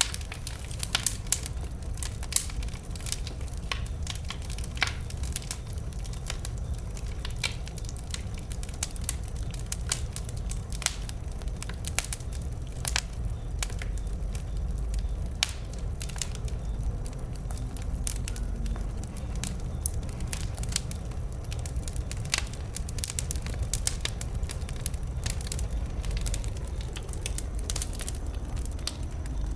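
Wood bonfire burning, with irregular sharp crackles and pops over a low steady rumble of the flames. The pops come thickest in the first half.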